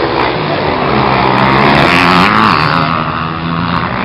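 Motocross bike engines running loud, their pitch rising and falling as they rev.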